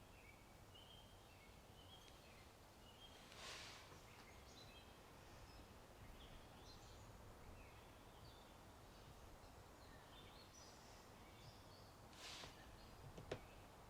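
Faint birdsong: many short high chirps over a low steady background hiss. Two brief soft swishes come about a third of the way in and near the end, followed by a single sharp click.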